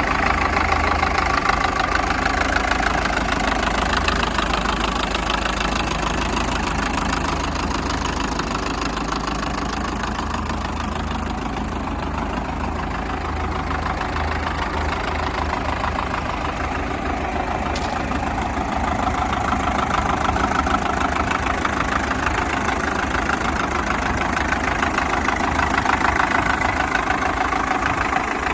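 New Holland SNH 550 tractor's diesel engine idling steadily, a little quieter for a few seconds in the middle.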